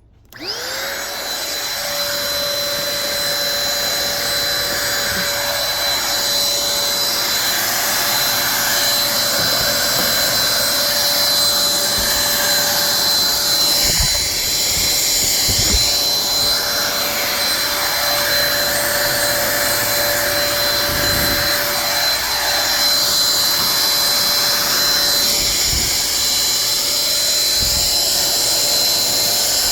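Corded Bissell Pet Hair Eraser handheld vacuum cleaner switched on about half a second in, its motor quickly spinning up to a steady high-pitched whine with a rush of air, with a few brief low bumps as it is handled.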